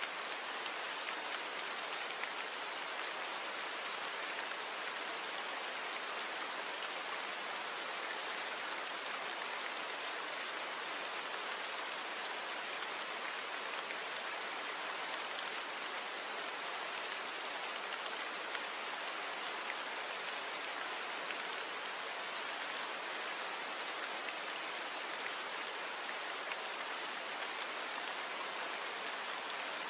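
Steady rain falling, an even hiss of many drops with no distinct individual hits, its low end thinned out.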